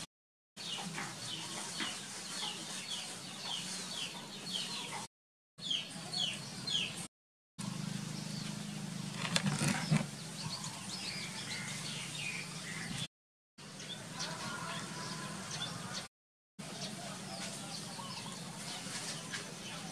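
Birds chirping repeatedly in short falling calls. The sound cuts off abruptly to silence several times.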